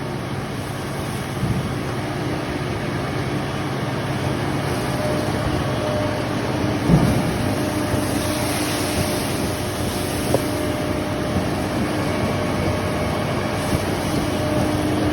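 Shred truck's engine and hydraulic system running steadily with a constant hum while the truck dumps its load of shredded paper, with a single knock about seven seconds in.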